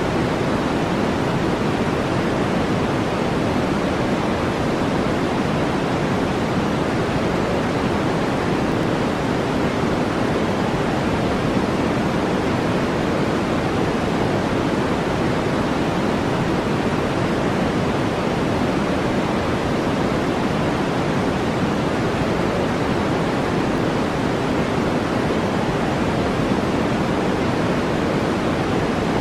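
Steady brown noise: an even, unbroken rushing hiss, deep rather than bright.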